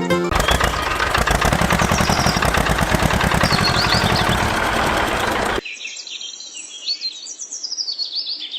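A small engine running for about five seconds with a fast, even pulse. It cuts off abruptly to quieter outdoor sound with birds chirping.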